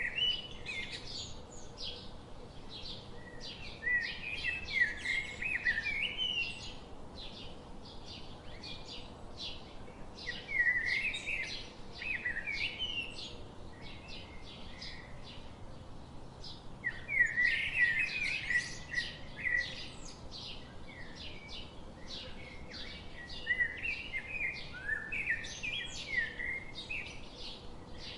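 Many birds chirping and calling at once, a dense chorus of short, quick chirps and trills, busiest about four, ten and seventeen seconds in.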